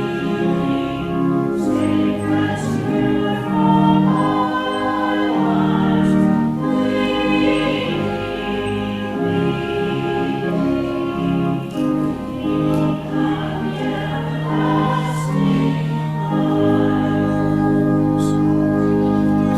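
Group of voices singing a hymn with church organ accompaniment, in long held chords that change every second or so.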